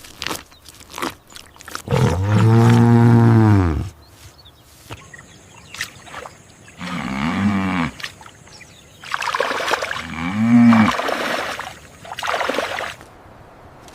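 Recorded animal calls: a long, low call lasting about two seconds, then shorter pitched calls around seven and ten seconds in, with brief clicks in between.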